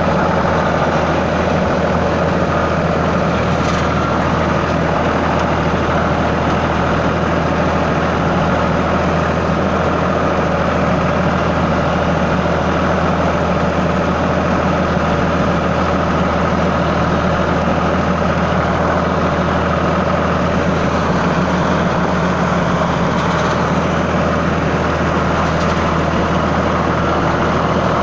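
Sonalika 745 DI tractor's diesel engine running steadily, holding an even speed with no revving or change in pitch.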